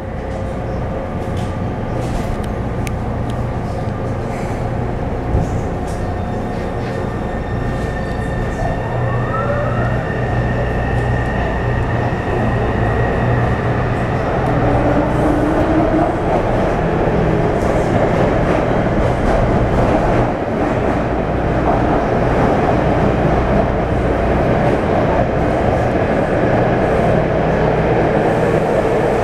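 Taipei Metro C301 train with a refurbished propulsion system running along the line: a steady motor hum and wheel-on-rail rumble that grows gradually louder, with a brief rising whine about nine seconds in.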